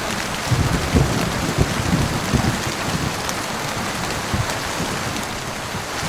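Heavy rain falling steadily, with irregular low thumps over the first few seconds that grow sparser later.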